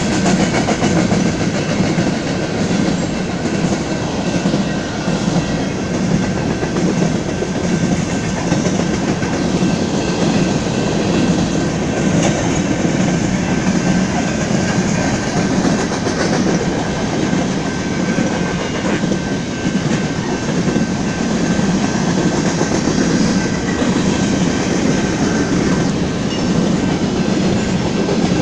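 Covered hopper cars of a BNSF grain train rolling steadily past, a continuous loud rumble with the clickety-clack of wheels over the rail joints.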